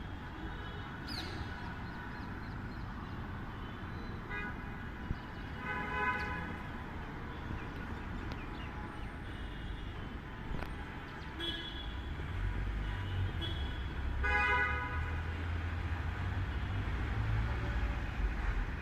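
City street traffic with vehicle horns honking several times in short blasts over a steady hum. A low engine rumble builds up about two-thirds of the way through.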